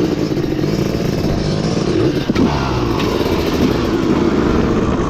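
Dirt bike engine running steadily and loudly, its pitch wavering slightly as the throttle moves, with a sharp click a little over two seconds in.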